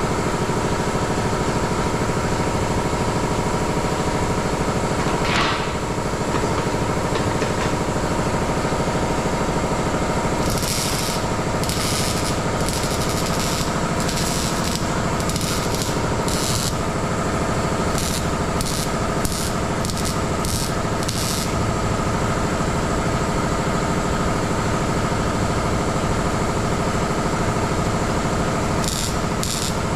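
Welding on a thin steel exhaust pipe in short stop-start bursts of crackle, repeated about twice a second from about ten to twenty-one seconds in and again near the end, to avoid burning through the thin metal. Under it runs a steady shop hum.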